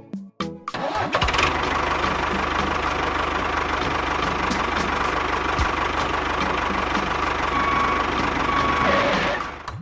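Small engine running steadily with a fast, even knock, starting about a second in and stopping shortly before the end.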